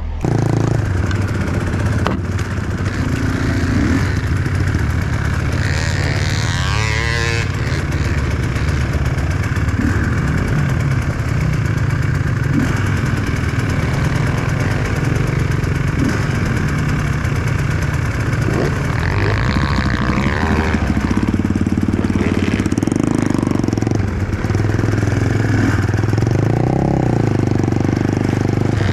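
Enduro motorcycle engine running loud and close, its revs rising and falling.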